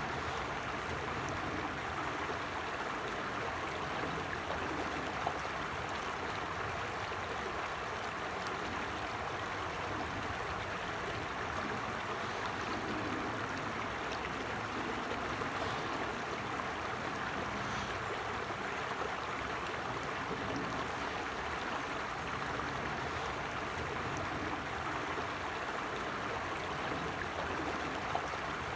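A stream flowing over rocks, a steady, even rush of water.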